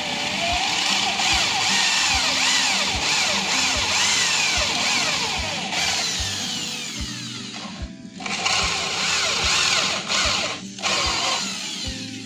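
A handheld power tool running under load on wood, with repeated rising and falling sweeps in pitch and brief drops around seven and ten seconds in, over background music with a steady beat.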